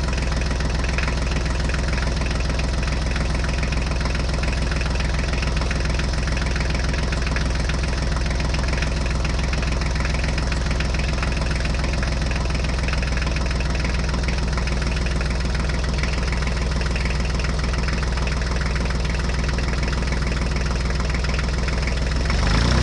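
An engine idling steadily with an even, fast knocking beat and a strong low hum, like a tractor diesel at idle.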